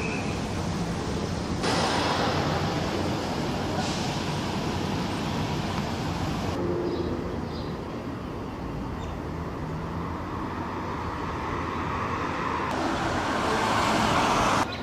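Diesel railcar engine and running noise, a steady rumble that changes abruptly several times where short clips are joined.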